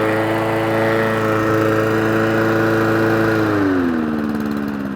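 Mountfield lawnmower's small petrol engine running steadily, then about three seconds in it loses speed and runs down as it cuts out. The engine dying points to a carburettor fault.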